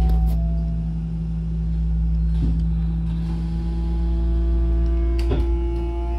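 Hankyu electric train car standing with its doors shut: a steady low rumble and hum from the car, with a few short knocks. From about halfway a set of steady higher tones joins in as the motor drive starts to pull the train away.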